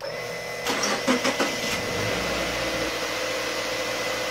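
2015 Subaru Forester's 2.5-litre flat-four engine starting and running steadily, with a steady whine over it. About a second in, a few quick spurts and splashes as the CVT fluid the running engine pumps out of the cooler return hose sputters into the container.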